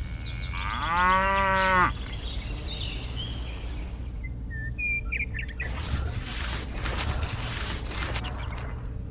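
A cow moos once, a single arching call about a second long, over a low steady rumble. A few short bird chirps follow, then a few seconds of hissing noise.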